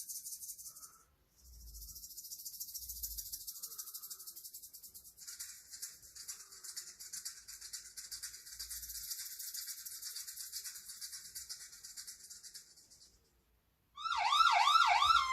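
Insects chirring: a dense, high, finely pulsing buzz, with a second, lower chirring layer joining for several seconds in the middle. It stops, and about a second later a police siren starts loud in a fast yelp and then sweeps down in long falling wails.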